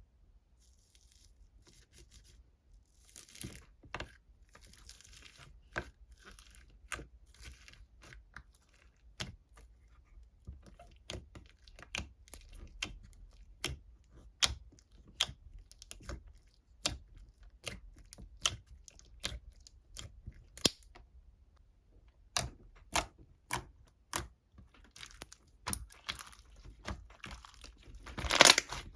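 Irregular sharp crackles and crinkling noises, about one or two a second, with a denser burst of crinkling near the end.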